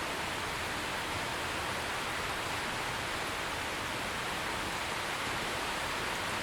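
Steady heavy rain, an even hiss of falling water with no distinct drops standing out.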